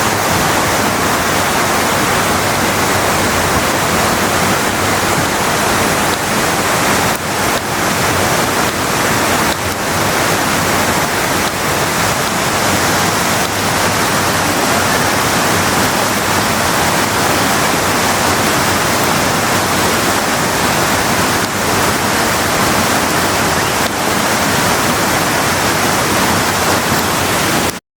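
Kanba Falls waterfall rushing in a steady, dense stream of falling-water noise, cutting off abruptly near the end.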